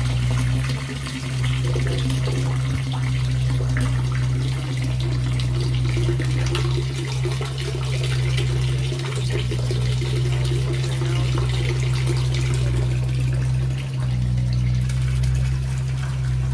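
Pump running steadily with a constant low hum while water gushes and splashes.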